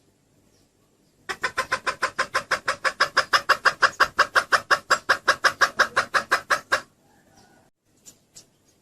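Junglefowl hen clucking in a fast, even run of about seven clucks a second. It starts a little over a second in and stops abruptly near the seven-second mark. This is the hen call used to lure junglefowl cocks.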